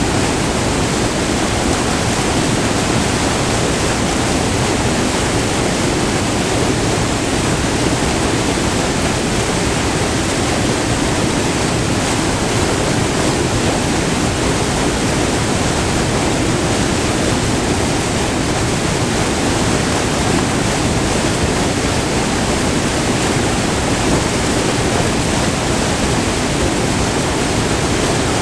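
White water rushing down a small multi-tiered waterfall on a river, a steady, loud rush that doesn't change.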